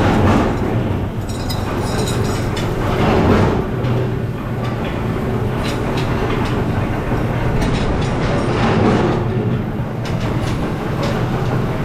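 Workshop machinery running steadily with a low hum, rattling and clacking, its noise swelling and easing every few seconds.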